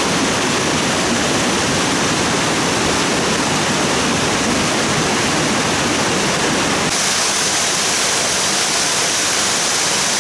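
Loud, steady rush of stream water. About seven seconds in it changes abruptly to a thinner, hissier rush with less low rumble.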